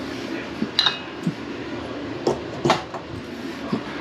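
Several sharp metallic clinks and clatters from small metal objects being handled, with the loudest about a second in ringing briefly.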